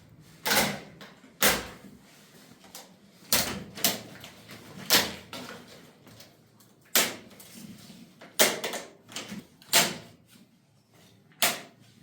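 Sharp knocks at irregular intervals, about ten of them, each dying away quickly.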